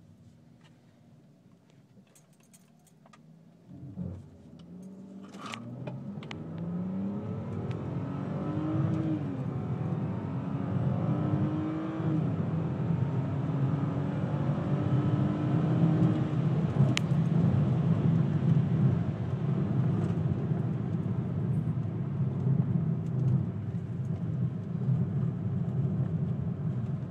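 Stock BMW E46 323i's 2.5-litre inline-six accelerating hard, heard from inside the cabin. After a quiet start and a thump about four seconds in, the engine note climbs and falls back at each of three upshifts, then settles into a steady loud drone.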